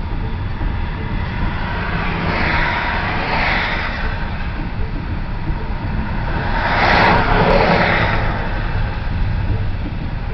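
Freight train of double-stack container well cars rolling past with a steady low rumble, heard from inside a vehicle. Two swells of rushing noise rise and fade about three and seven seconds in.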